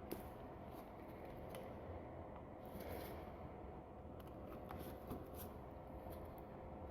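Faint scattered clicks and light rustling handling noises, heard over a low steady hum.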